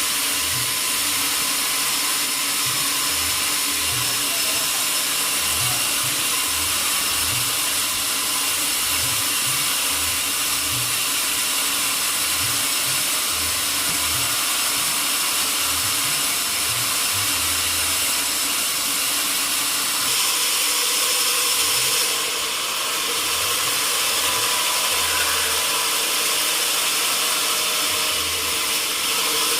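Sawmill saw machinery running steadily: a constant loud hiss and whine with several steady high tones, the sound shifting slightly about two-thirds of the way through.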